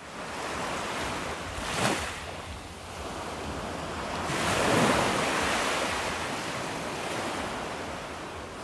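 Water washing in waves, mixed with wind on the microphone. It comes as a rushing noise that surges briefly about two seconds in, swells loudest from about four to six seconds in, then eases.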